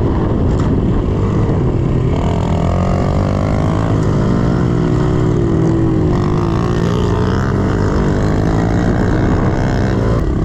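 A 110cc four-stroke pit bike engine being ridden hard, revving up and down with the throttle so its pitch rises and falls.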